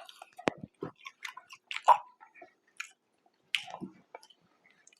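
Close-miked chewing and biting of fast food, with irregular small crunches and wet mouth clicks, the loudest near two seconds in and again around three and a half seconds.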